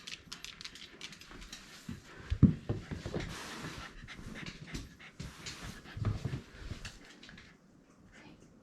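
Shiba Inu panting during ball play, with a couple of soft thumps about two and a half and six seconds in.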